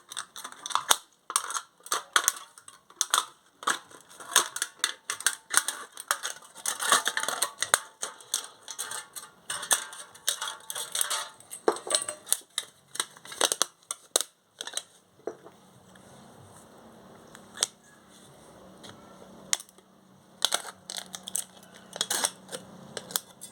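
A thin aluminium drink can being cut and bent by hand, a dense run of short crinkling crackles and snaps for about fifteen seconds, then only a few scattered clicks over a faint steady hum.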